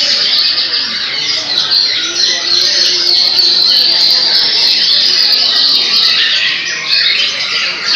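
Many caged white-rumped shamas (murai batu) singing at once in a loud, unbroken contest chorus of overlapping high, rapid phrases.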